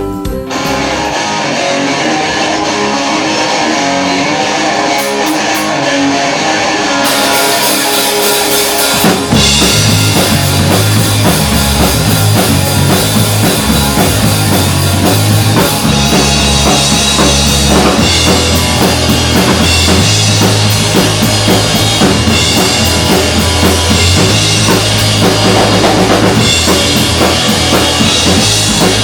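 Rock song played by a band: a guitar-led opening, then drums and bass come in about nine seconds in and the full band plays on.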